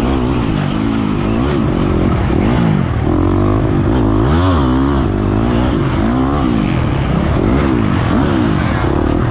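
Motocross dirt bike engine revving hard and backing off over and over, its pitch rising and falling about once a second.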